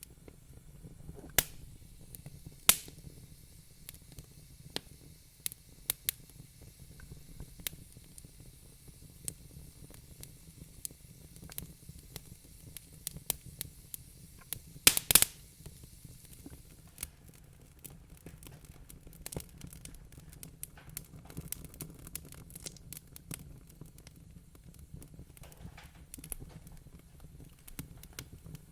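Wood fire crackling in a fireplace: irregular sharp snaps and pops over a low steady rumble, with two louder pops near the start and the loudest quick cluster of pops about halfway through.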